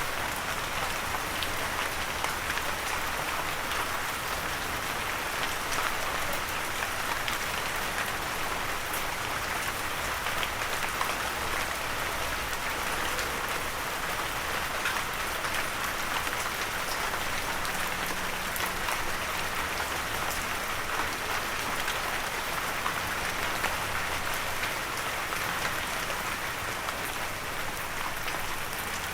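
Steady, gentle rain falling on a surface, an even hiss with fine scattered drop ticks and no thunder.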